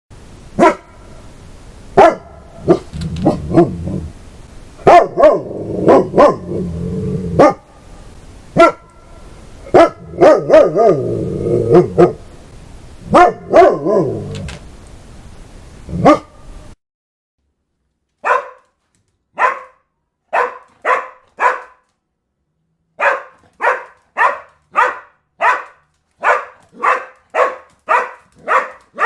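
Dog barking, in two sound-effect recordings. First come loud, sharp barks over a steady low growling. Then, after a short break about 17 seconds in, comes a run of evenly spaced single barks, about two a second, in short groups.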